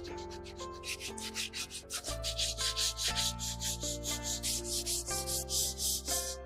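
Wood being sanded by hand in rapid, even strokes, about four or five a second, over background music with slow chord changes.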